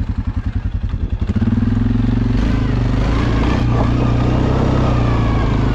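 Suzuki KingQuad ATV engine under load in deep snow: it chugs at low revs at first, then holds steadier, higher revs from about a second and a half in, rising a little near the middle.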